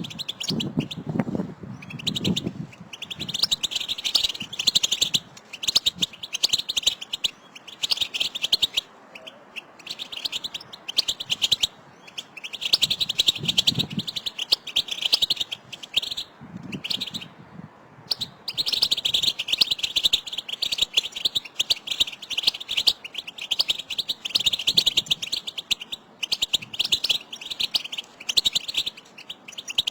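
European goldfinches calling together in rapid, excited twittering (the 'batbata' calls), in bouts of one to three seconds with short pauses; this group calling is the kind used to stimulate a caged male goldfinch to sing. A few brief low sounds lie underneath.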